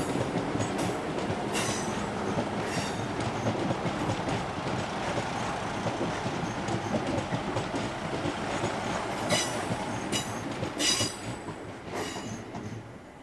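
Passenger train running past, its wheels clicking over rail joints in a clickety-clack. The sound fades away near the end.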